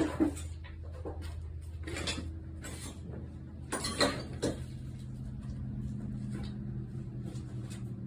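Scattered knocks and clatter of objects being handled and moved about, over a steady low hum.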